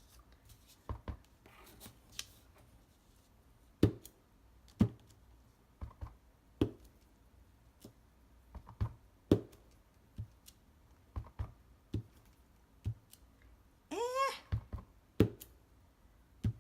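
A dozen or so sharp taps, irregularly spaced, as a stamp is inked on an ink pad and pressed onto paper on a tabletop. A brief vocal sound about three-quarters of the way through.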